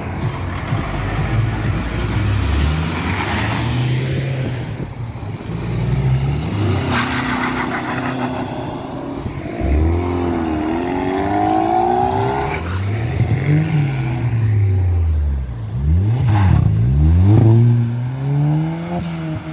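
Cars driving past one after another, their engines revving with the pitch rising and falling, and several quick rev blips near the end.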